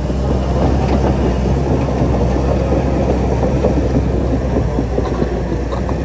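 Shantui DH-17C3 crawler bulldozer's diesel engine running steadily under a dense, irregular clanking rattle of its steel tracks moving.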